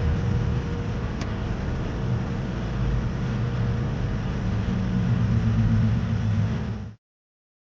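Steady low rumble and road noise of a car being driven, heard from inside the cabin. It cuts off abruptly about seven seconds in.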